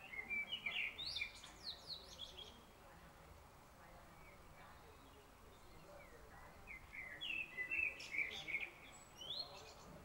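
A bird singing two short phrases of quick high notes, one right at the start and one about seven seconds in, over a faint steady background noise.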